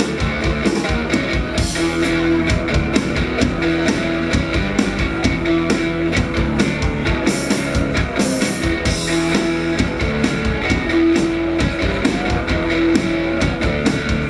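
Live rock band playing an instrumental break: guitar over a steady drum beat, with no singing.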